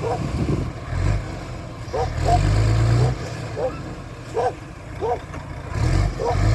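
Tipper truck's diesel engine running and revving up in two spells, once early on and again near the end, while the truck tips out its load of sand. Short voice-like calls come in between.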